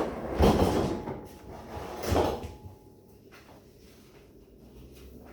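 Household handling noise: a sharp knock, then two short rumbling scrapes about two seconds apart, like a drawer or cupboard being opened and shut.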